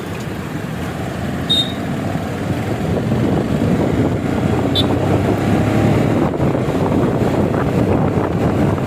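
A motorcycle on the move in traffic: steady engine and road rumble with wind buffeting the microphone. Two short high beeps come through, about one and a half seconds in and again about five seconds in.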